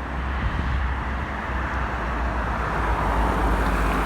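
Steady rumble of road traffic, swelling a little near the end as a vehicle passes close by.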